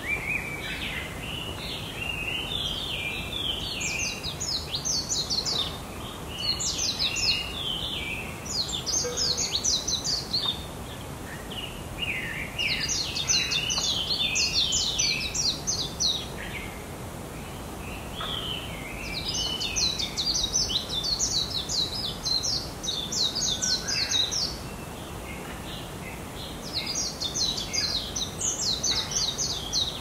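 A songbird singing: bouts of rapid, high twittering notes, each lasting a few seconds, repeated with short pauses between, over a steady background hiss.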